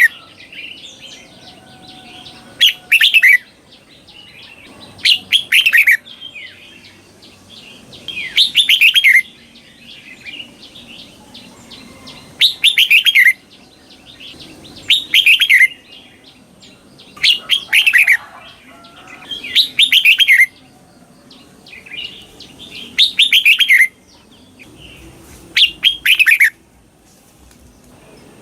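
Red-whiskered bulbul singing its short, loud song phrase again and again in the doubled style that bulbul keepers call "เบิ้ล", about once every two and a half seconds. Each phrase is a quick run of falling notes. Softer chattering calls fill the gaps between phrases.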